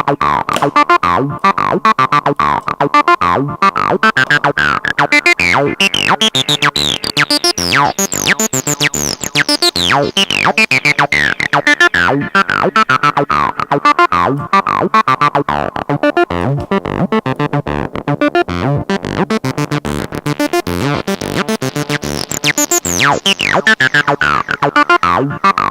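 Acid synth bassline running through a TB-303-style distortion plugin set fully wet: rapid repeating notes with a gritty, distorted tone. The resonant filter sweeps up to a bright squelch and back down, twice.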